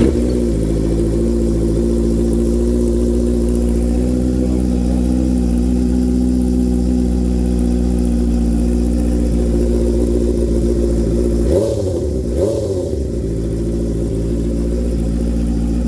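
Honda CB650F inline-four running on an SC-Project slip-on silencer just after a cold start, idling loud and steady. Twice, about twelve seconds in, the revs rise briefly and fall back.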